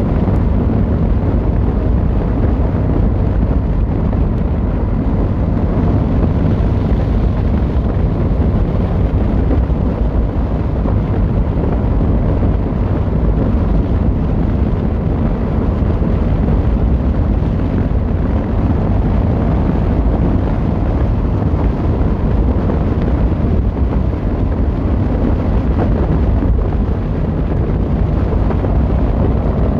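Yamaha XVZ1300 Royal Star's V4 engine and exhaust running steadily under way, a low, even rumble with no clear revving.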